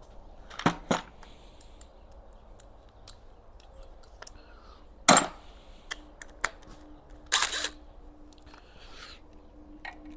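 Hand tools being picked up and set down: scattered sharp metallic clicks and clanks, two close together about a second in and the loudest, with a brief ring, about five seconds in.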